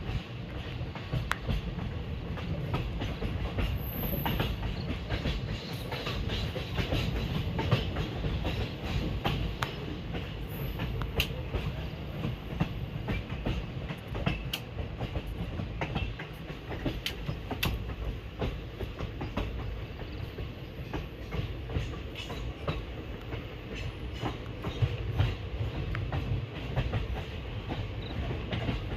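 Indian Railways train running steadily along the track: a constant low rumble with irregular clicks and clacks of the wheels over the rail joints.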